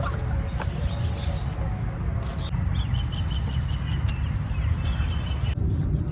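Outdoor ambience dominated by a steady low rumble, with a faint high bird call held for about three seconds in the middle and a few light ticks.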